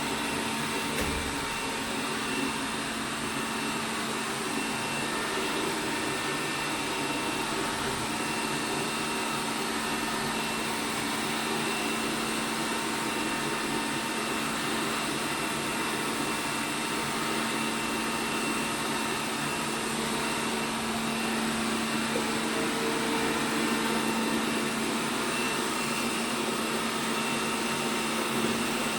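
ELARI SmartBot Lite SBT-002A robot vacuum cleaner running, a steady motor hum with a thin high whine over its suction noise.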